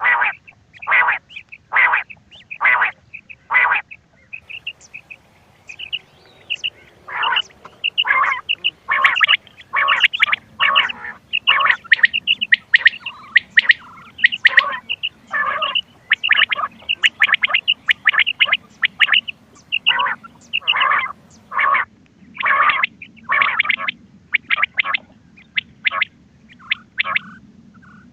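Recorded quail calls played as a hunting lure: a rapid series of short, harsh calls, often several a second, with high chirps mixed in. The calls thin out to faint chirps for a few seconds about four seconds in, then come thick again.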